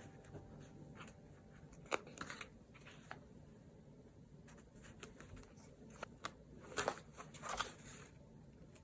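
Quiet art-journaling desk sounds: a few light taps and clicks, and short scratchy rustles of paper and stationery being handled. The loudest rustles come near the end.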